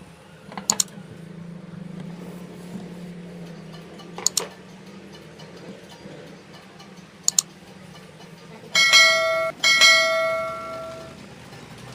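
Three pairs of short sharp clicks, then an electronic chime sounds twice near the end, the second tone held longer and fading away, over a faint low steady hum.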